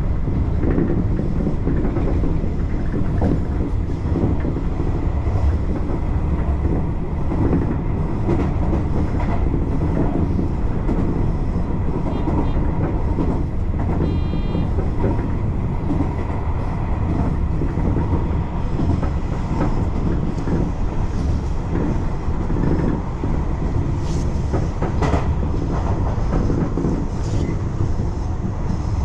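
Tobu Railway local train running along the track, heard from inside the front car: a steady rumble of wheels on rail with clicks over the rail joints. A brief high beep sounds about halfway through.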